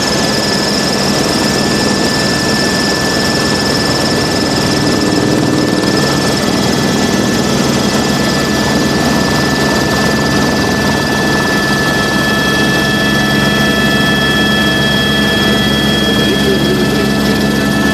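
Helicopter in flight, heard from inside the cabin: a steady, loud rush of turbine and rotor noise with a high, steady whine over it.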